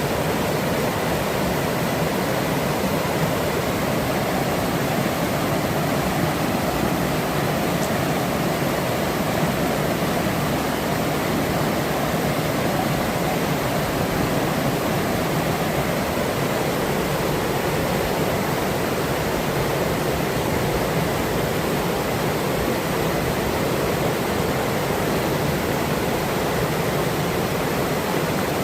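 River flowing through a forest: a steady, unbroken rush of running water.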